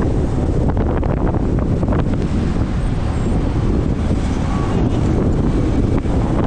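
Wind buffeting the microphone on a moving motorcycle taxi, a steady loud rumble with the bike and traffic underneath.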